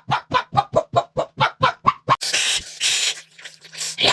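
Rapid yapping barks, about five a second, that stop about two seconds in, followed by a harsh, hissing noise.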